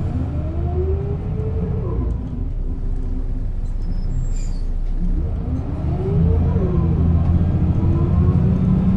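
A 1996 Setra S 315 UL city bus driving, its diesel engine and ZF gearbox rumbling, with the pitch rising and falling twice: once in the first two seconds, and again between about five and seven seconds in. A short high-pitched squeak or hiss comes a little past four seconds in.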